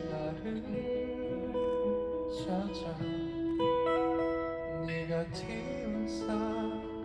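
Live performance of a slow ballad: acoustic guitar playing under long held melodic notes, some with vibrato, in a wordless instrumental passage.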